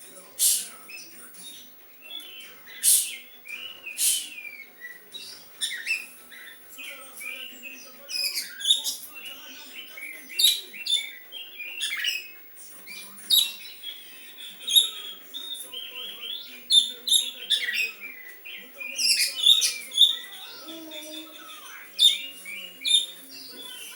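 Oriental magpie-robin singing a varied, irregular song of sharp chirps and whistled notes, with phrases that mimic the sooty-headed bulbul.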